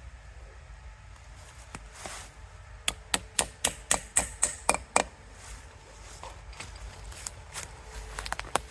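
Small hammer driving a sap spout into the tap hole of a maple tree: a quick run of about nine sharp strikes over two seconds, starting about three seconds in, with a couple of lighter knocks near the end.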